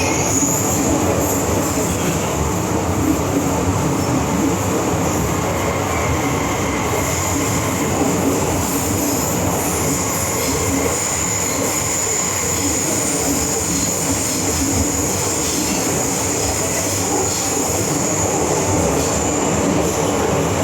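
Cabin noise of an MTR Island Line M-Train running between stations. A steady rumble is topped by a thin high-pitched whine that holds throughout.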